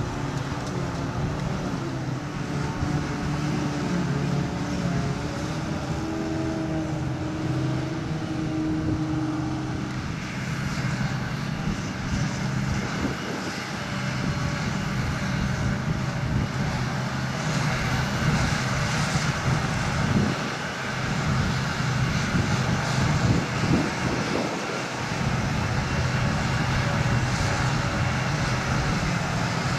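Diesel engines of silage-harvesting machinery, a self-propelled forage harvester and tractors, running under load with a steady deep drone. From about ten seconds in a higher rushing noise joins the engine sound.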